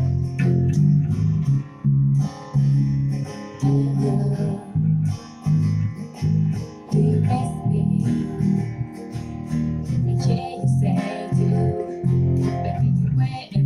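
Guitar strummed in a steady rhythm, a passage without clear singing.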